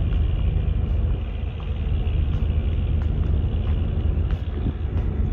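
Steady low rumble on board a ferry under way, with wind buffeting the microphone.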